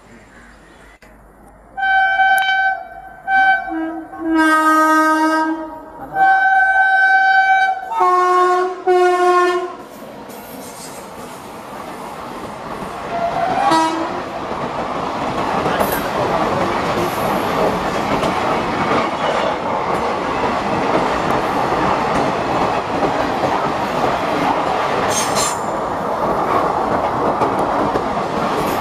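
An Indian Railways WAP-7 electric locomotive sounds a series of loud horn blasts in two pitches, some held for over a second. Then a passenger train's coaches pass at speed, a loud, steady rushing of wheels on rails.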